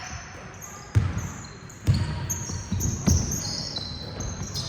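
Basketball bouncing on an indoor court, a few separate thuds about a second apart, with short high squeaks over them.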